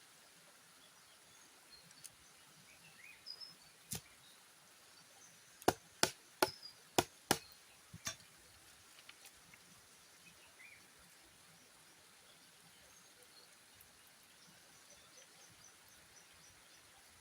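A single sharp knock, then about six sharp knocks or chops in quick succession over two to three seconds, with faint bird chirps in the background.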